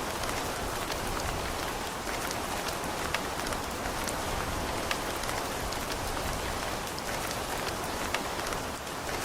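Steady rain falling on a building, an even hiss with individual drops ticking sharply here and there.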